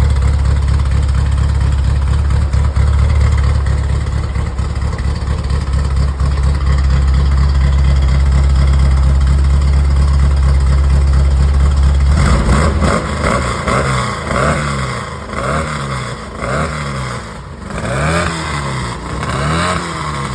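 Engine running through full custom headers and exhaust: a steady, deep idle for about the first twelve seconds, then a string of quick throttle blips, the revs rising and falling about once a second.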